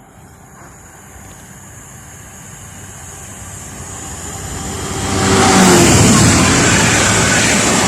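A train approaching and passing at speed: its noise builds steadily and is loud and steady from about five seconds in.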